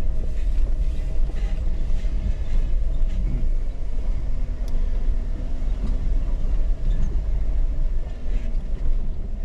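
Jeep engine running at low speed as it crawls along a rocky mountain trail, a steady low rumble.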